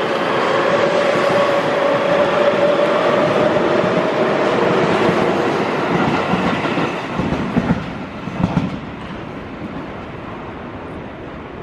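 Seibu 6000 series electric train pulling out past the platform: a steady rush of wheel and rail noise with a motor whine that rises slowly in pitch as it accelerates. Near the end the wheels clack over rail joints a few times as the last cars go by, and the sound fades away.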